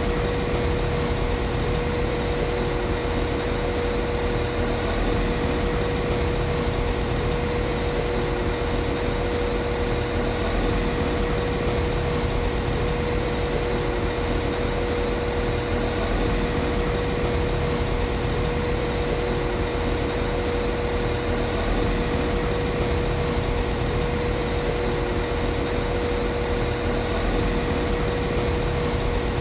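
Class 195 CAF Civity diesel multiple unit's underfloor MTU six-cylinder diesel engine idling. It is a steady low rumble with a constant mid-pitched hum over it, unchanging throughout.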